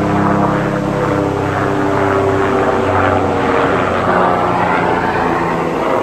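A loud engine drone passing by, its pitch sliding slowly down as it goes, with a hissing rush above it.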